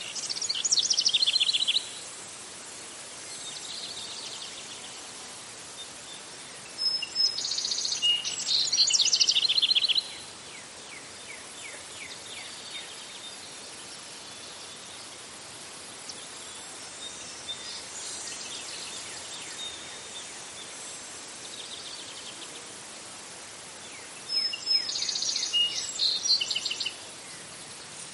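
Outdoor ambience of songbirds and insects: a steady hiss of insect noise, with bird song breaking in three times in loud high phrases of rapid repeated notes, near the start, about a third of the way in, and near the end. Fainter chirps come in between.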